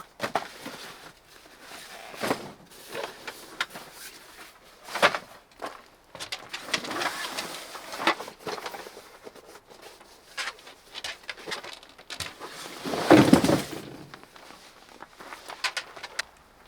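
Scattered knocks, clicks and rustles of things being handled, with a louder, longer burst about thirteen seconds in.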